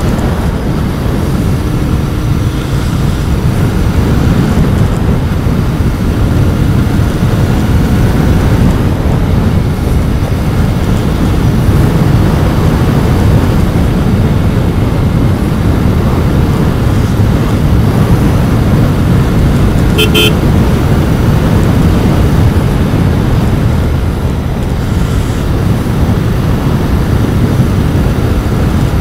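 Royal Enfield Continental GT 650's 648 cc parallel-twin engine running steadily through its stock exhaust while riding. A short horn toot sounds about twenty seconds in.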